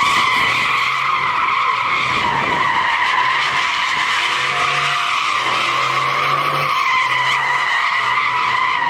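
Car tyres squealing in one long, unbroken, steady screech as a car drifts, with a low engine drone coming and going underneath. It cuts off suddenly at the end.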